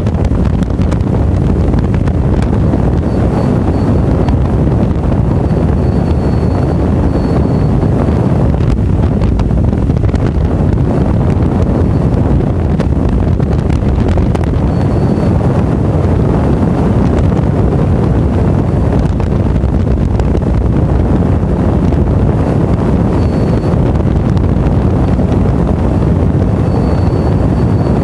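Loud, steady wind buffeting on the camera microphone of a moving motorcycle, with engine and road noise mixed in underneath.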